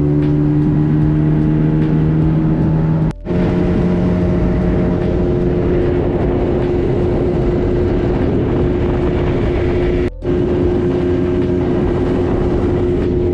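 Boat's outboard motor running steadily under way, with water and wind noise around it. The sound drops out briefly twice, and the engine's pitch sits slightly different after each break.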